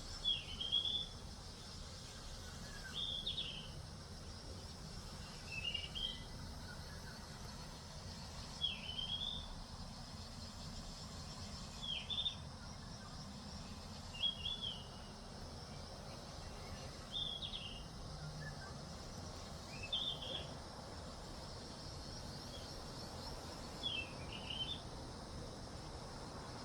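A bird calling over and over, about ten short high chirps spaced every two and a half to three seconds, over faint steady outdoor background noise.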